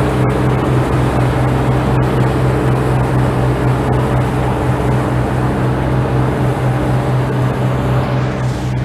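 Engine of a harvesting machine running steadily at constant speed: a loud, even low hum with overtones.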